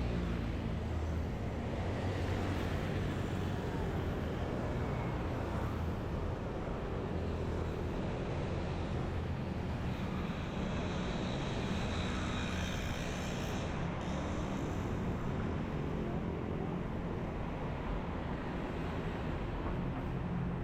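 Bangkok local city bus without air conditioning under way: a steady low engine rumble with road and traffic noise, and a higher hiss for a few seconds in the middle.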